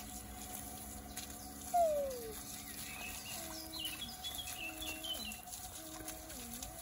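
Birds calling: long held tones that bend and dip, a louder falling call about two seconds in, and short high chirps in the middle, over faint splashing of tap water on paving as feet are rinsed.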